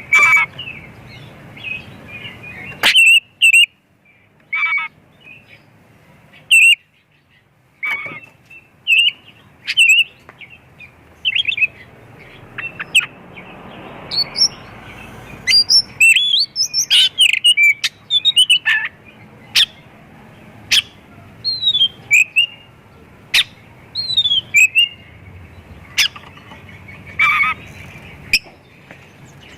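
Oriental magpie-robin (kacer) singing a long, varied song of short whistles, rising and falling sweeps and sharp click-like notes in irregular bursts with brief pauses, a song filled with phrases learned from other birds.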